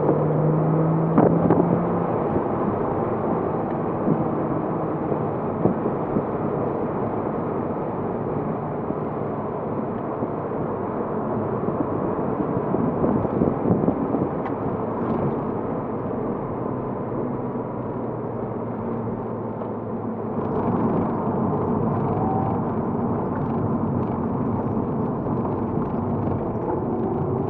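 Steady engine and road noise from a 2007 Porsche Cayman S's 3.4-litre flat-six on the move. The engine note shifts pitch a few times and gets a little louder about two-thirds of the way through.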